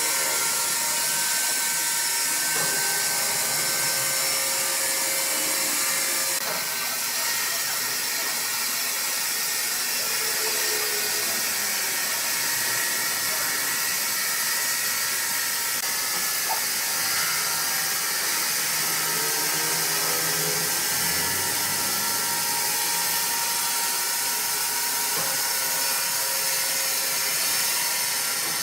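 Woodworking machinery running continuously: a steady high hiss with a few faint, steady whining tones underneath.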